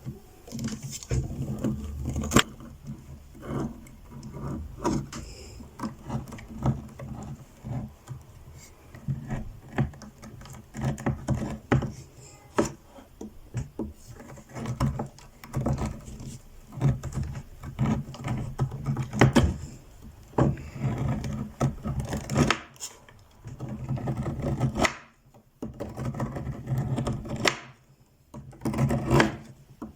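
Irregular rustling, taps and small knocks of household items and fabric being handled and put away, with a low steady hum underneath.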